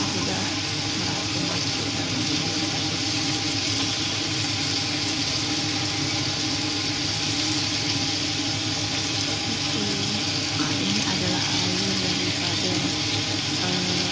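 Chicken pieces sizzling steadily in a wok over a gas burner, an even hiss with a low hum underneath.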